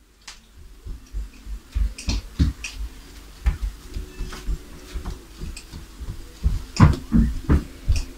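Bubble wrap popping under someone's feet: a string of irregular sharp pops with soft thuds of the steps, the pops closest together and loudest near the end.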